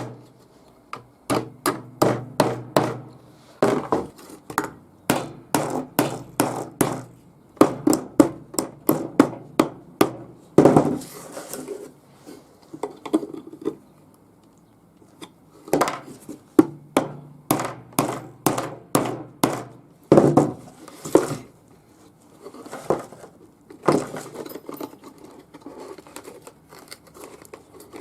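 Hammer knocking on wood in quick runs of strokes, about four a second, with short pauses between runs and a longer lull about midway.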